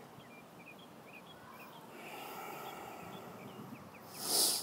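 Faint outdoor ambience with small birds giving short, high chirps scattered throughout. Near the end comes a brief, louder rustle, just before the sound cuts off.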